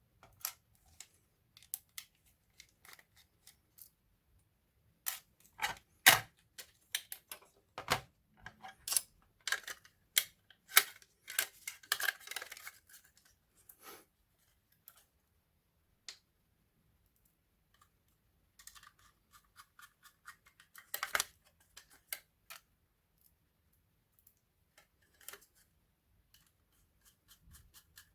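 Sharp clicks, taps and scrapes of small plastic and metal laptop parts being handled. They come in two busy spells with quieter stretches between.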